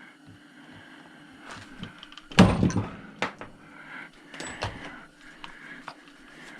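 Scattered knocks and clicks of a chop saw's metal parts being worked loose by hand during teardown, the loudest knock about two and a half seconds in, over a steady low hum.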